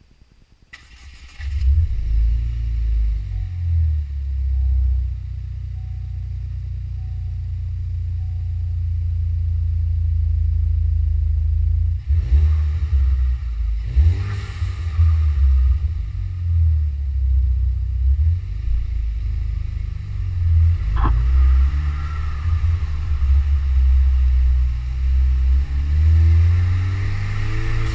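2012 Buick Regal GS's turbocharged 2.0-litre four-cylinder starting about a second in and running through a custom exhaust with Borla S-Type mufflers, a deep low rumble at idle with several short revs.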